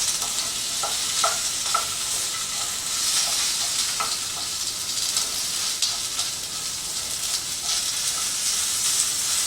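Asparagus frying in olive oil in a 10-inch Viking skillet: a steady sizzling hiss, with a few short scrapes of stirring.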